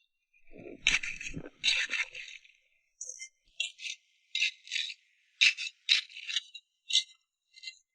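A series of about nine short, uneven rattling and scraping bursts, the first couple heavier with a dull thud beneath.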